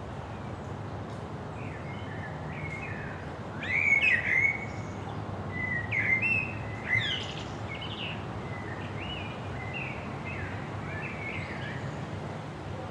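Songbirds calling and singing in short chirping phrases, some sliding in pitch, over a steady outdoor background hiss. The loudest calls come about four seconds in and again around six to seven seconds.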